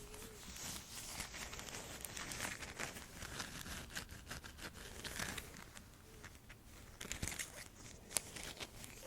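Close-miked ASMR trigger sounds: fast crinkling and rustling with many small clicks.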